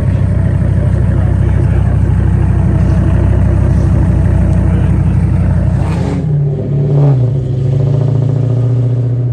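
A car engine running loudly close by, a deep, pulsing rumble. About six seconds in the rumble drops away and a steadier, higher engine note takes over, with a brief rev about seven seconds in.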